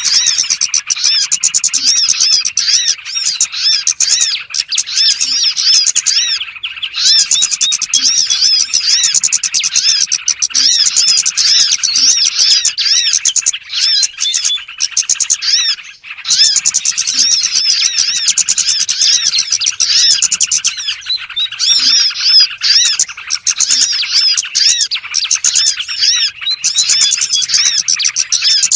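Dense chorus of small songbirds chirping rapidly and continuously, many high calls overlapping, with a couple of brief lulls: a lure call for small birds, used by bird trappers.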